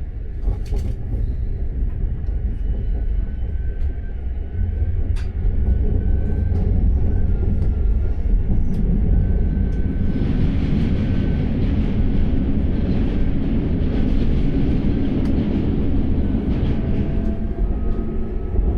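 Passenger train running on the rails, heard from inside the carriage: a steady low rumble with a few sharp clicks, growing louder about five seconds in.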